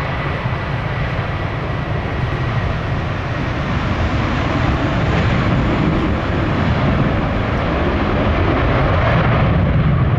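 Jet airliner engines at high power close by, a steady loud rush over a deep rumble that swells slightly toward the end, as on a takeoff roll. Wind buffets the microphone.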